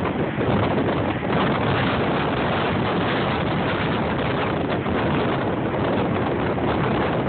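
Hurricane Sandy's storm wind blasting across a phone microphone, a steady rushing roar with slight gusting.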